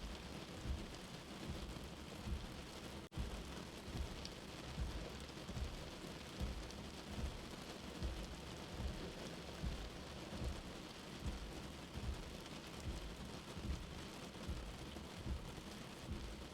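Steady rain hiss with a soft, low heartbeat thump repeating slowly, about every 0.8 seconds. The sound drops out for a split second about three seconds in.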